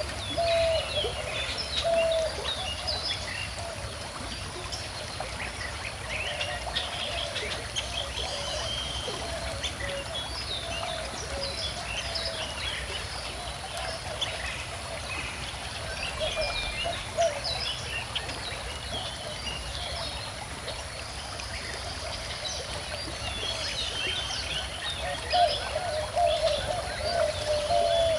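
Many birds chirping and singing over the steady sound of a gently flowing river. A repeated lower call comes through several times, most clearly near the start and again near the end.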